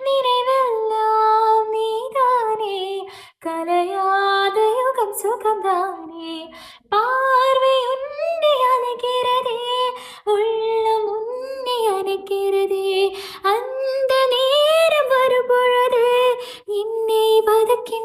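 A woman singing unaccompanied in long, ornamented melodic phrases, with short breaths between them about every three seconds.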